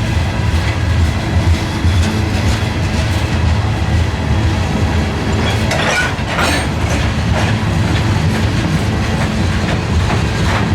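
Railroad cars rolling past on the track with a steady low rumble, with a few sharper metallic rail noises about six seconds in.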